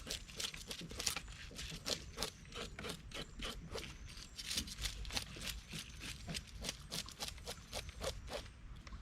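Rapid repeated scraping strokes, several a second, keeping an even rhythm.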